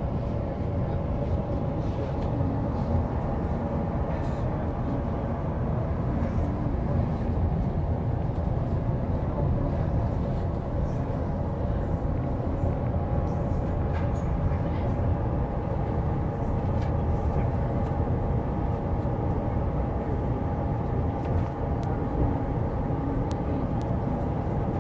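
Steady low rumble of a moving Amtrak passenger train heard from inside the car, with a faint steady whine and a few light clicks.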